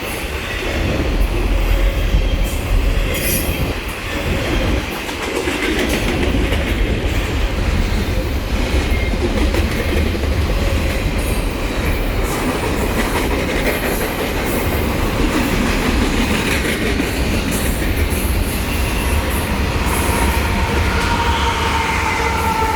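A train rolling past close by: steady rumble of the railcars, with wheels clicking over the rail joints. Near the end a wheel squeal comes in, a high sustained tone.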